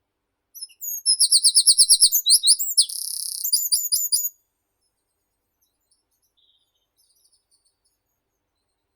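A meadow songbird sings one loud song phrase of about four seconds: a fast run of repeated high notes, a short buzzy stretch, then a few quick sharp notes. Faint chirps from other birds follow.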